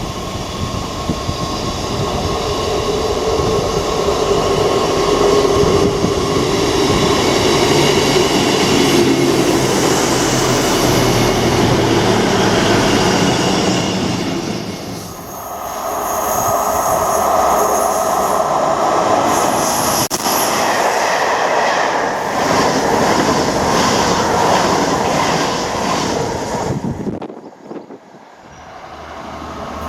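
Passenger trains passing at speed, with steady rail and wheel noise. The sound dips briefly about halfway through, then swells again with a second pass. Near the end it falls away abruptly.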